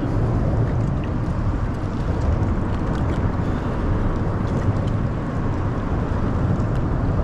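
Steady low rumbling background noise with a few faint ticks, with no clear single source.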